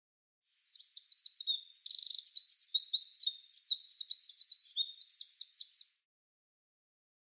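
A songbird singing one fast, varied phrase of high trills and quick sweeping notes, lasting about five seconds.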